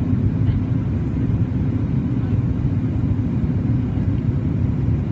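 Steady low rumble inside the cabin of a Boeing 737 MAX 8-200: the CFM LEAP-1B engines and airflow, heard from a window seat ahead of the wing.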